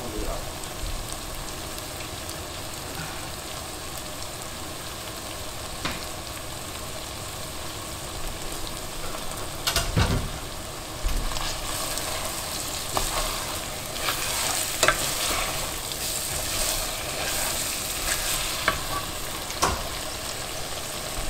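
Lemongrass, garlic and other aromatics sizzling in butter and oil in a stainless steel pot, the sizzle growing louder about halfway through as a ladle stirs them. Several sharp knocks of the ladle against the pot, the loudest about ten seconds in.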